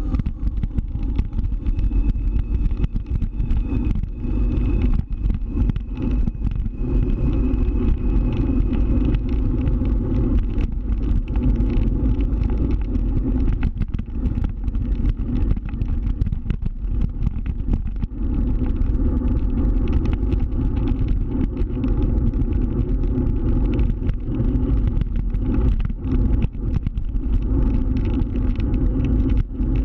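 Scooter running steadily while being ridden, a constant low drone with rough, crackly road and wind noise over it. A faint high whine sits over it for the first several seconds.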